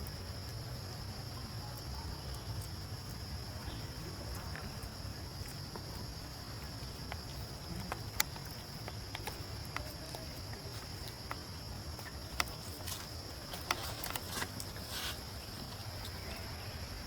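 Steady high-pitched insect drone, with a low rumble underneath. From about eight seconds in, scattered sharp clicks and rustles.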